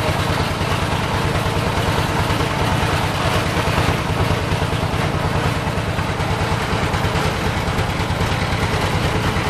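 Boat engine running steadily, a low, even throb with a fast regular pulse.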